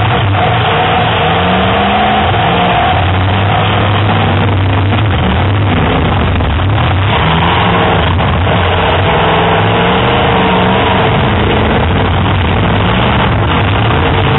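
Several full-size demolition derby cars' engines revving at once, their pitches rising and falling, with a few faint knocks around the middle.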